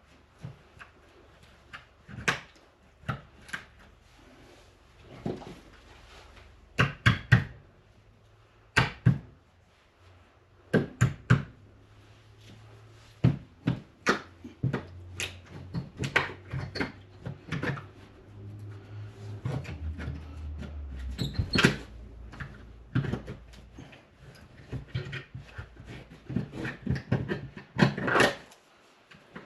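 Irregular knocks, taps and clicks of hand tools working at a wall and metal vent trim, some in quick clusters of two or three, with a low hum coming in around two-thirds of the way through.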